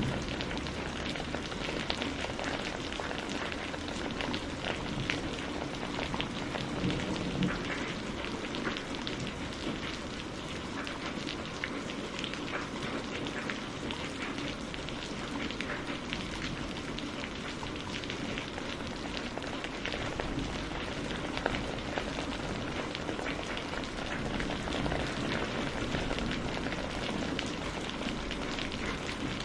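Steady rain falling on a surface, an even hiss with many separate drops ticking close by.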